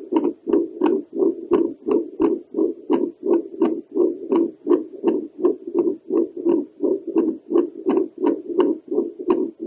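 Home Doppler picking up a woman's heartbeat through the chest, held over the pulmonary valve area: a rapid, regular train of whooshing pulses, each with a sharp click on its front edge.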